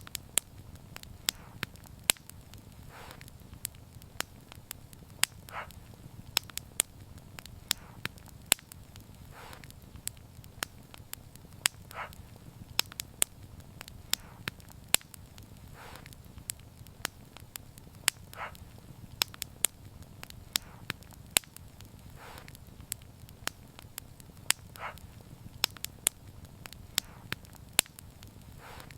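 Wood fire burning: many sharp, irregular crackles and pops over a low, steady rumble of flames.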